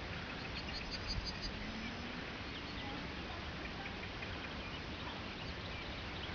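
A small bird calling in short, high chirps, a quick cluster about a second in and scattered single notes after, over a steady background hiss.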